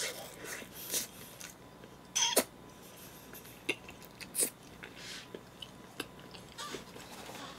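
Close-miked chewing of a bite of pizza: soft, wet mouth and lip smacks at irregular intervals, the loudest a little after two seconds in, followed by finger-licking.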